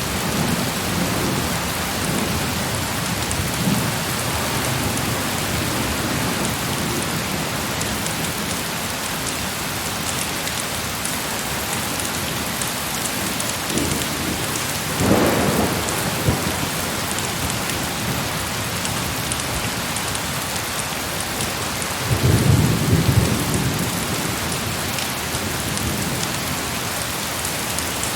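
Heavy rain falling steadily, with distant thunder rumbling low about halfway through and again near the three-quarter mark.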